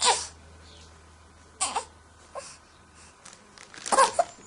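A baby crying in short, broken bursts: a loud cry right at the start, another about a second and a half later, and a run of quick cries near the end.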